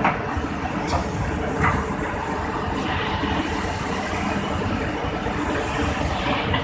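Excavator's diesel engine running steadily, with a few short knocks in the first two seconds.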